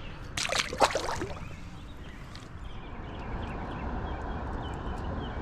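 A short splash of water about half a second in, lasting around a second, over a steady rush of river water.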